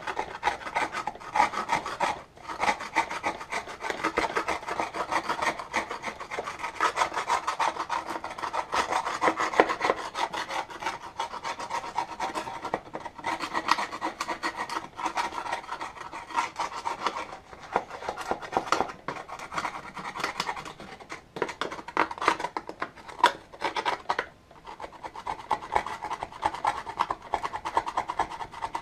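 Rapid, continuous scraping and scrubbing of built-up crud off upright vacuum cleaner parts, with brief pauses a couple of seconds in and near the end.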